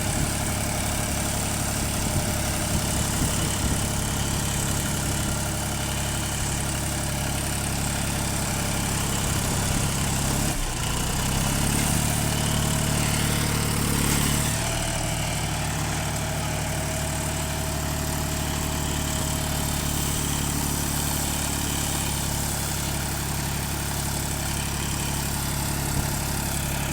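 Tractor diesel engine running steadily. About halfway through it dips briefly, then revs up for a few seconds and settles back to its earlier speed.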